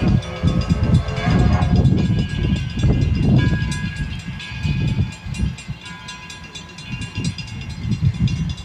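Passenger train running at a distance, a low uneven rumble with faint steady high tones over it. The rumble eases off after about four seconds.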